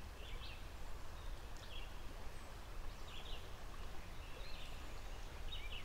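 Birds chirping in short calls every second or so, over a steady low rumble.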